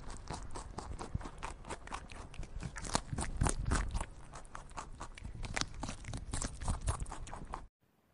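Rabbits chewing fresh leaves: rapid, crisp crunching bites that stop abruptly shortly before the end.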